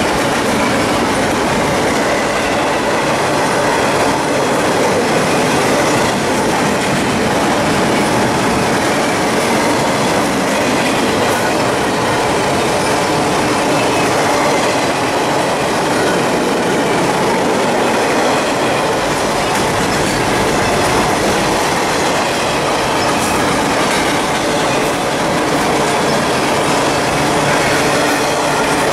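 Freight train's container well cars rolling past close by: a loud, steady rumble and clatter of steel wheels on the rails.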